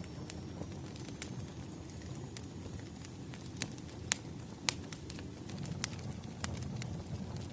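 Wood fire crackling: a steady low rumble of burning logs with irregular sharp pops and snaps, the loudest a little past the middle.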